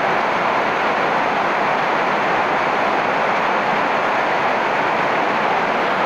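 Heavy rain pouring steadily onto banana leaves and coconut palm fronds: a loud, even hiss with no breaks or separate drops standing out.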